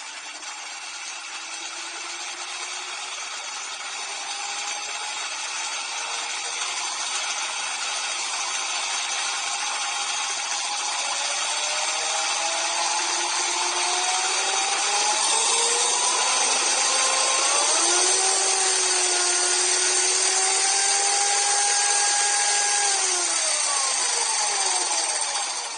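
Seven-cylinder reciprocating engine model running: a mechanical whirr whose whine rises gradually as it speeds up. It holds steady for a few seconds, then slides down in pitch and fades as the model slows near the end.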